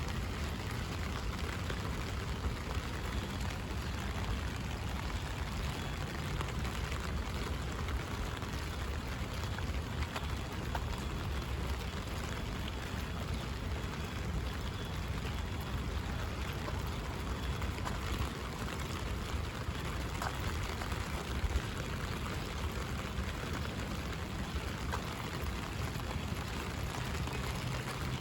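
Rain pattering steadily on an umbrella overhead, with now and then a single louder drop ticking on the canopy.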